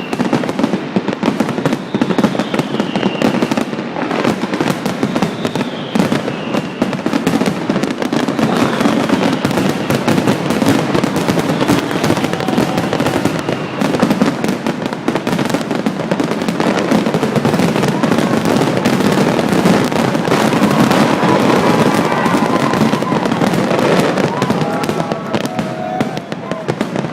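Large fireworks display: a dense, continuous barrage of bangs and crackles, with a few falling whistles in the first several seconds.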